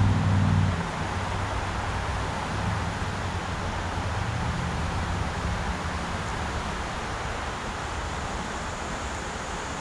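Rushing water of a mountain river, a steady, even hiss. A low rumble underneath dies away about a second in.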